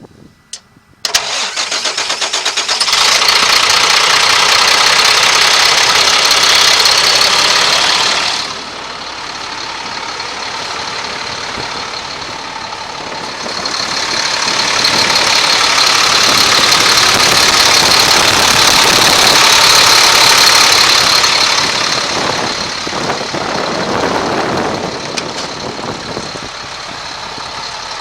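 2005 Sterling tandem-axle truck's diesel engine starting about a second in and running up loud. It drops back to a lower idle after several seconds, is revved up again in the middle, then settles back toward idle near the end.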